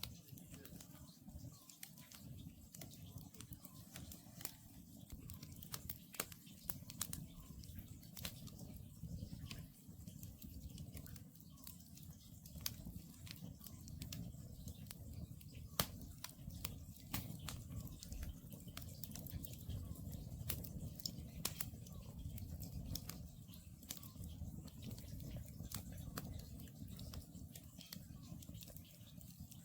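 Wood campfire crackling, with frequent sharp pops over a low steady rumble. An Oriental scops owl calls faintly in the distance.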